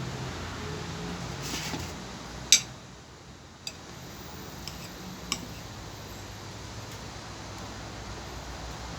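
Cutlery clinking against a plate while eating: one sharp clink about two and a half seconds in, then fainter ones near four and five seconds, over a steady low hum.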